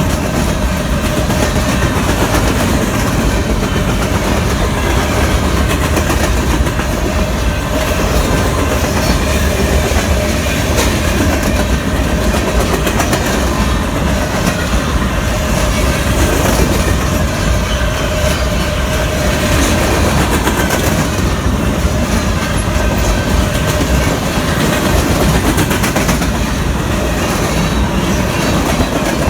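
A Union Pacific freight train's cars rolling past, their steel wheels running loud and steady on the rails.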